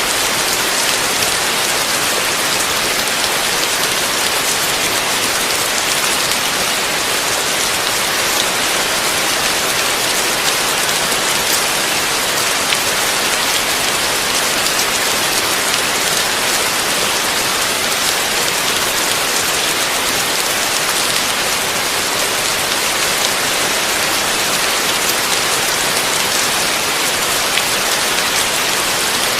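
Heavy rain falling steadily: an even hiss of countless drops, unchanging throughout.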